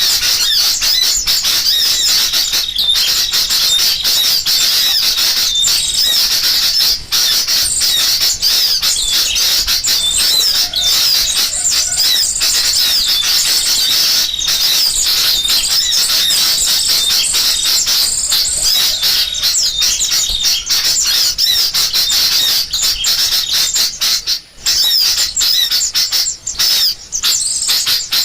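Bird-lure recording of sooty-headed bulbuls calling agitatedly, layered with the chatter of small songbirds. It is a dense, unbroken mass of high, overlapping chirps and whistles, the excited flock noise used to draw wild birds in.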